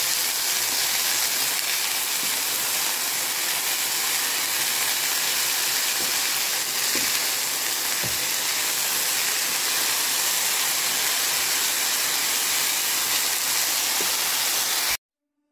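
Shredded durian flowers sizzling as they are stir-fried in a pan, a steady hiss with a few light clicks of the spatula against the pan. The sound cuts off suddenly near the end.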